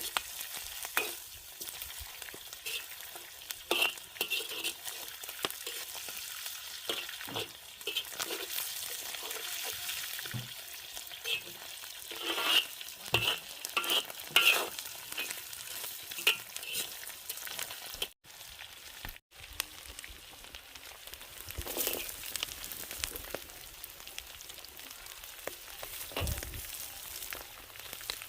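Food sizzling as it fries in a pan, with a utensil scraping and knocking against the pan as it is stirred at irregular intervals.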